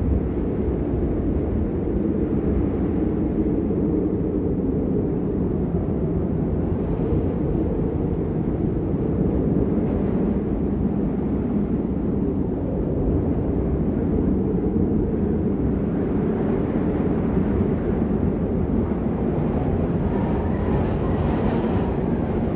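Steady low rushing wind of a snowstorm, its noise heavy in the low end with no breaks.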